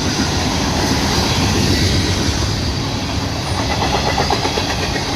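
Freight train cars rolling past close by, with a steady rumble and clatter of wheels on rail.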